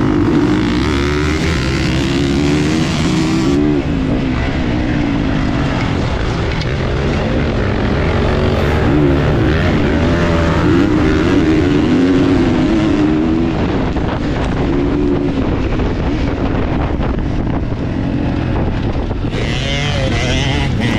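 Dirt bike engine running, its pitch rising and falling as it revs up and down.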